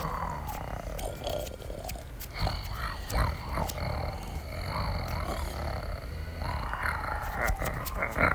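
Large wild animals roaring and growling in irregular bursts, with a low rumble underneath.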